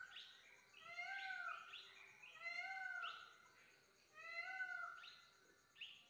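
Birds perched on power lines calling: three rising-and-falling calls, about a second and a half apart, with short rising chirps between them.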